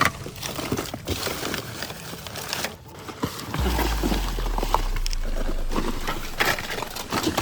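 Rummaging through a pile of old phones and gadgets: hard plastic items clicking and knocking together amid rustling. A steady low rumble comes in about halfway.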